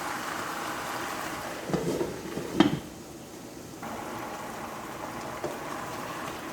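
Water running in a kitchen sink, with a few knocks and clatters of pots and dishes about two seconds in. The water stops for about a second, then runs again.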